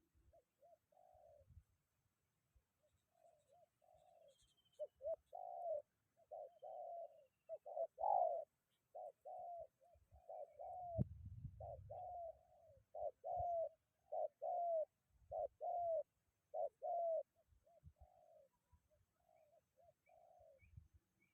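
Spotted doves cooing: a long series of short, mellow coo phrases repeated one after another. A brief low rumble comes about eleven seconds in, and a few faint high chirps sound behind.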